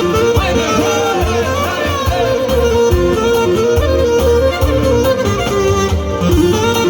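Albanian folk wedding music in an instrumental break between sung verses: a wavering, ornamented lead melody over a steady low beat.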